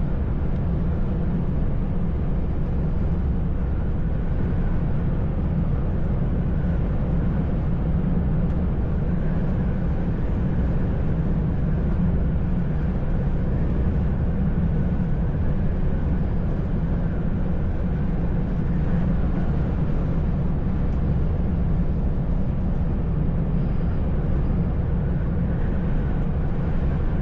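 Truck engine and road noise, a steady low drone with no change in speed or load.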